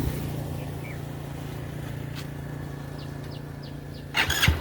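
Motorcycle engine idling with a steady low hum, with a few faint bird chirps over it. Near the end a loud, noisy burst breaks in as the engine picks up.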